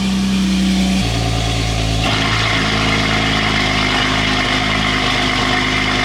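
BMW F80 M3's S55 twin-turbo inline-six idling steadily shortly after a cold start, through a freshly fitted Valvetronic Designs equal-length exhaust with catless downpipes. The note shifts about a second in and turns brighter about two seconds in.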